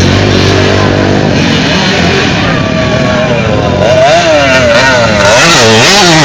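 Motocross motorcycle engines running hard, loud, with the pitch rising and falling repeatedly in the second half as the throttle is worked through the track.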